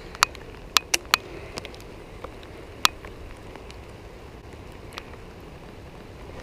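Steady rain falling on the pond and the leaves around it, with a few sharp ticks in the first three seconds.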